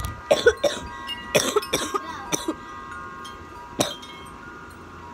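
Wind chimes ringing, several steady tones overlapping and slowly dying away. Over the first two and a half seconds come a run of short, sharp sounds, and one more sharp sound about four seconds in.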